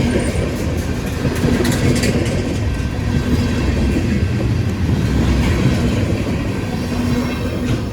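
Freight cars of a long train rolling past, a steady loud rumble of steel wheels on the rails.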